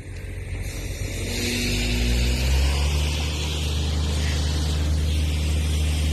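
A motor or engine spinning up over about a second and a half, then running at a steady low hum with a hiss over it.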